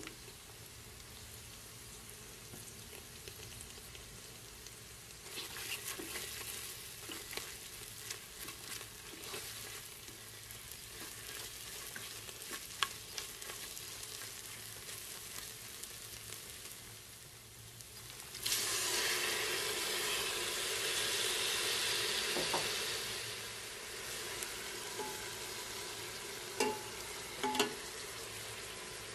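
Onion and tomato paste sizzling in oil in a stainless steel pot, stirred and scraped with a spatula. About two-thirds of the way in the sizzle suddenly grows much louder as chopped tomatoes go into the hot oil, then settles. There are two short knocks near the end.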